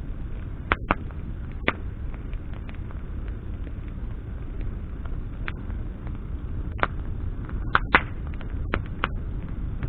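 Campfire of burning branches crackling, with scattered sharp pops and snaps over a steady low rumble of flames.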